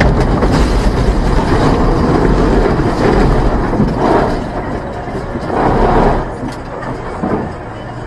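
Loud vehicle noise, with louder surges about four and six seconds in and a drop in level near the end.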